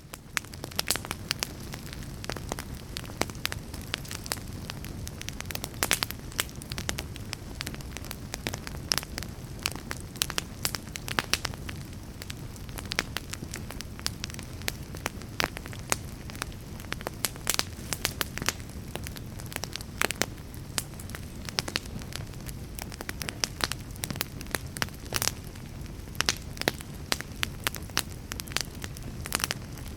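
Fire crackling, with many irregular sharp pops and snaps over a steady low rumble of burning.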